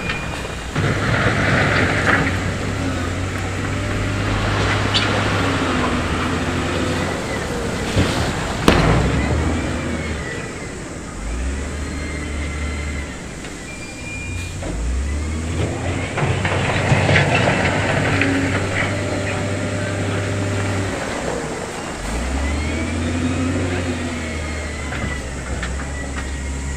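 Diesel engines of heavy earthmoving machines working on stone fill, their pitch stepping up and down as they rev, with spells of hiss and one loud clank about nine seconds in.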